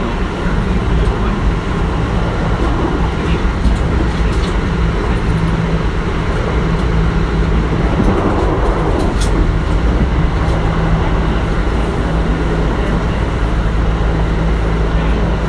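Kintetsu 1420 series electric train running at a steady pace, heard from on board: an even rumble of wheels on rail with a steady low hum.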